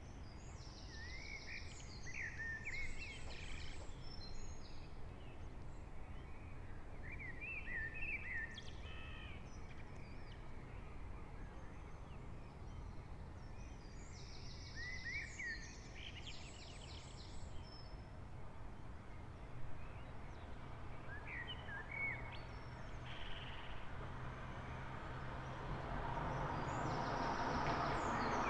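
A songbird singing short phrases of high trills and quick notes, repeated about every six seconds, over a steady low town hum. In the last few seconds a vehicle approaches and its noise grows louder.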